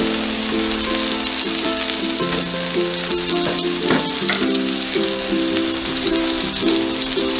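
Minced garlic and chopped tomato sizzling steadily in hot oil in a nonstick frying pan, under background music with held notes.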